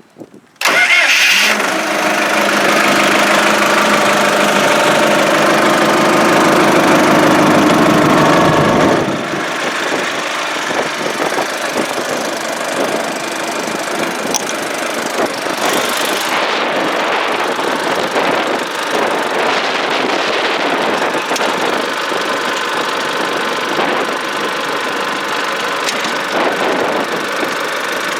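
1997 John Deere 5500 tractor's diesel engine starting about half a second in and running with a steady even note. About nine seconds in it drops a little in level and settles into a rougher, steady run.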